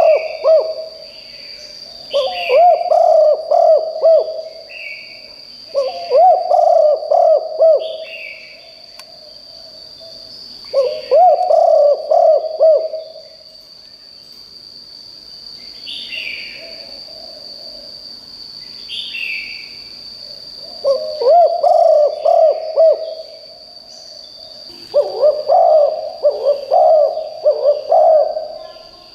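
Spotted dove cooing in repeated phrases: about six bouts of a few seconds each, with pauses between them. Brief higher chirps from other birds and a steady high-pitched tone run underneath.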